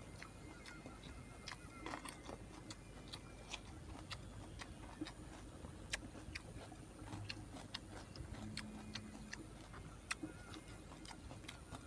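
Quiet eating sounds: scattered light clicks and smacks of chewing and handling food, over a faint steady high-pitched hum.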